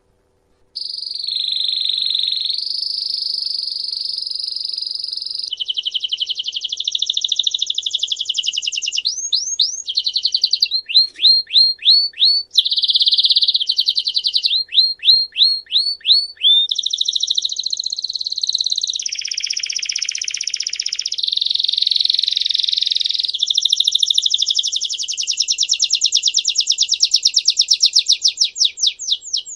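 A songbird singing continuously in long, very rapid trills, interspersed with runs of quick down-slurred notes, the phrase changing every few seconds; the song starts about a second in.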